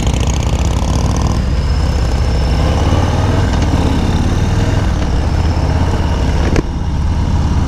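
Harley-Davidson motorcycle engine running steadily under way, a loud low rumble. It dips suddenly for a moment about six and a half seconds in.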